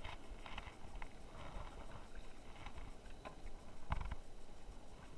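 Scattered knocks and taps in a fishing canoe over a low rumble, the loudest knock about four seconds in.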